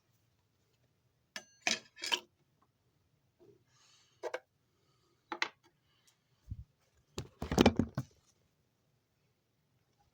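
Hard objects being handled: a string of separate sharp clicks and clacks, with a louder cluster of knocks and rattles about seven seconds in.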